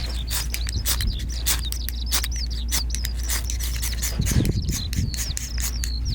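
Wood fire crackling with frequent irregular sharp pops, while small birds chirp over and over in short high calls, over a steady low rumble.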